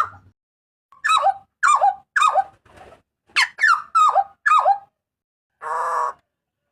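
Butcherbird calling loudly: a run of three short notes and then a run of five, each sliding sharply down in pitch. A harsh, buzzy rasping call follows near the end.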